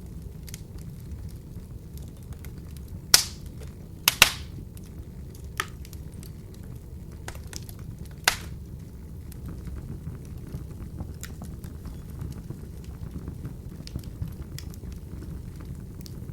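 Wood fire burning in an open fireplace: a steady low rumble of flames with scattered crackles and sharp pops, the loudest pops about three, four and eight seconds in.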